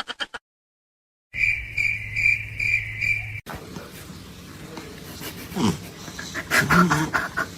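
A steady chirping tone pulsing about four times a second, then, after an abrupt change, an animal's short calls with sliding pitch, loudest near the end.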